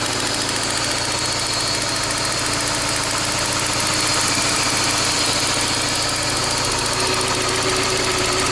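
Peugeot 406 Coupé 2.0-litre engine idling steadily with a fast, even ticking, which the owner suspects comes from the hydraulic lifters.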